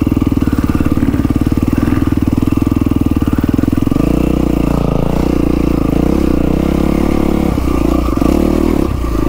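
2012 Yamaha WR450F's single-cylinder four-stroke engine running at low speed, heard on board. The note is steady at first, then shifts and wavers about four seconds in as the throttle is worked.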